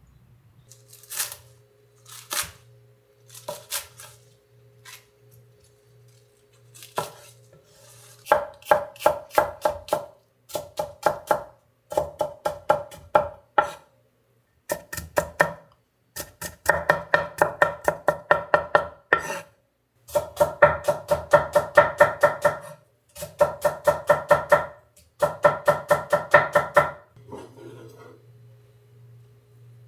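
Knife chopping rapidly on a cutting board: a few single knocks at first, then a series of runs of quick strikes, about five a second, with short pauses between runs.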